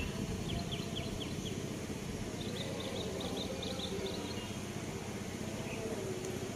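Steady background noise with a low rumble, over which come two quick runs of short, high chirps like a small bird's, one near the start and one about two and a half seconds in.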